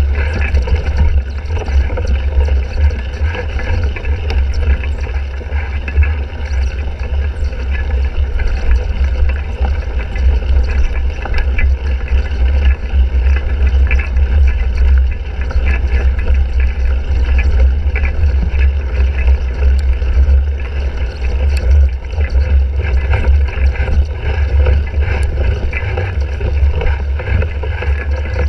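Steady wind buffeting and heavy vibration rumble on a bike-mounted GoPro Hero 3 while a cyclocross bike is ridden hard, with a few light clicks and rattles.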